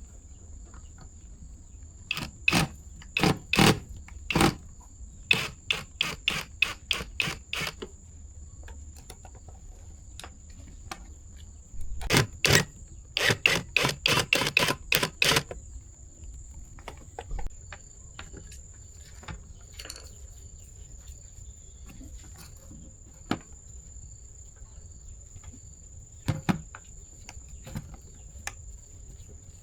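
Sharp clicks and knocks from hand work on a rice cooker being repaired, coming in clusters, with two fast runs of about four a second in the first half and only scattered ticks later. A steady high insect chirring runs behind.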